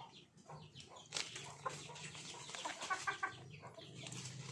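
Chickens clucking in short, scattered calls, mixed with sharp little clicks and taps.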